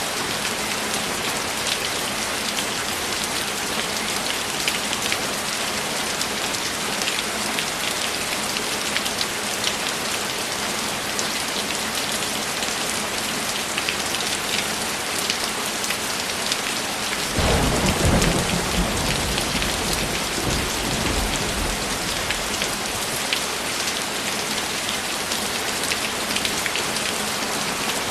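Steady heavy rain with the patter of many drops, and about two-thirds of the way through a sudden rolling rumble of thunder that fades over several seconds.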